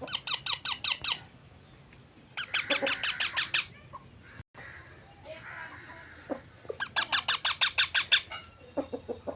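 Ringneck parrot squawking in rapid runs of sharp, repeated calls, about nine a second, in three bursts: at the start, around two and a half seconds in, and near seven seconds in.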